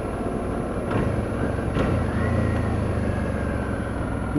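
Motorcycle engine (a Suzuki V-Strom 650's V-twin) running steadily under way, with road and wind noise picked up by a helmet boom mic; the low engine hum firms up about a second in.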